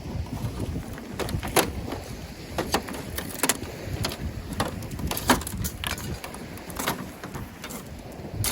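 Wood fire crackling with irregular sharp pops and snaps, over a low rumble of wind and surf.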